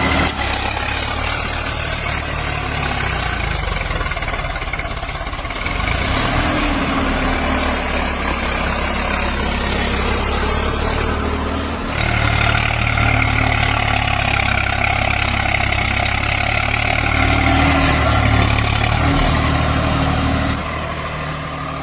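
Engine running steadily with a low hum and some revving, its tone changing abruptly about 6, 12 and 21 seconds in.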